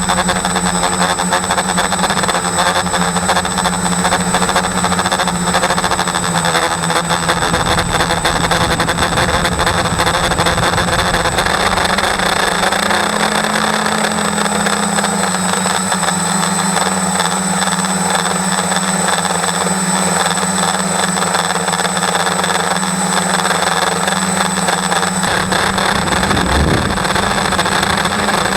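Small motor spinning a propeller with a broken blade, running continuously with a steady buzzing hum and a constant high whine. The hum shifts up slightly about 13 seconds in, and the low rumble under it drops away for several seconds before returning near the end.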